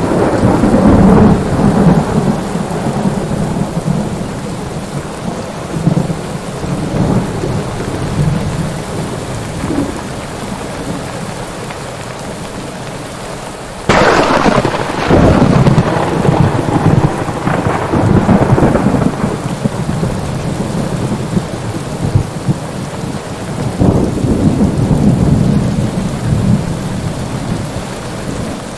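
Rain falling steadily under rolling thunder. A sudden, sharp thunderclap breaks about halfway through and rumbles on, and another roll of thunder swells near the end.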